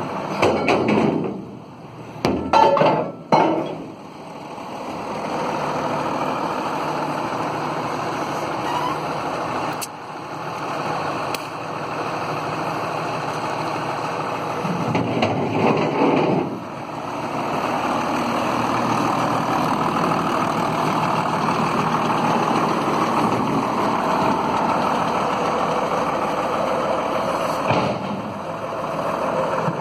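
Heavy vehicle engine running steadily, with brief dips in level a couple of seconds in and again about halfway through.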